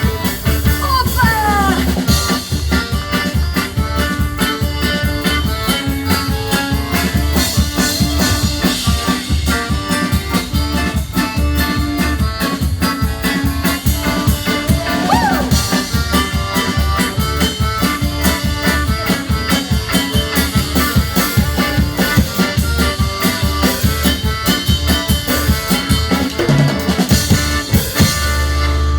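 A live folk dance band playing instrumentally, with a drum kit keeping a fast, steady beat under fiddle, guitar and accordion. The tune stops abruptly near the end.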